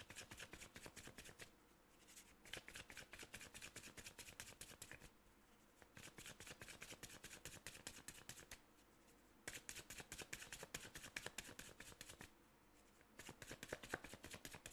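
Tarot deck being shuffled by hand: quick runs of soft card clicks in about five spells of two to three seconds, with short pauses between them.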